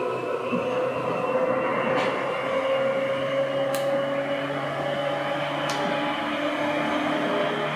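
Seibu 2000 series electric train running: a steady rumble with a set of humming tones, the strongest rising slowly in pitch. Three short sharp clicks come about two, four and six seconds in.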